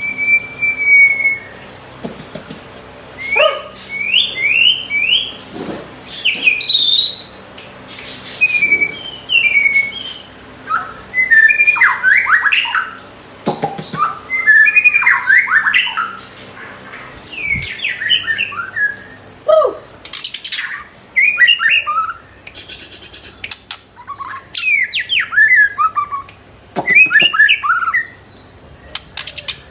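White-rumped shama singing: a long run of varied phrases, clear gliding whistles mixed with harsher chattering notes, broken by short pauses.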